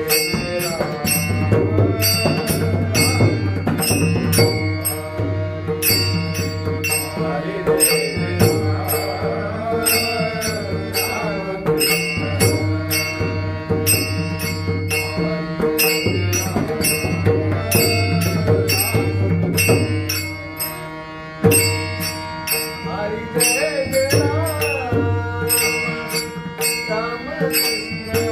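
Marathi Varkari bhajan: a man sings a devotional melody over a steady held instrumental drone, while hand cymbals strike a steady beat about twice a second.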